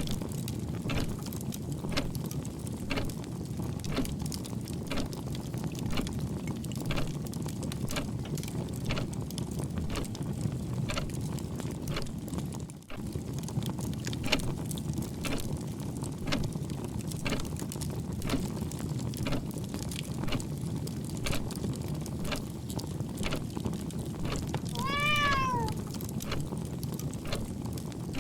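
Fireplace crackling, with irregular sharp pops over a steady low rumble. About 25 seconds in, a cat meows once, its pitch rising then falling.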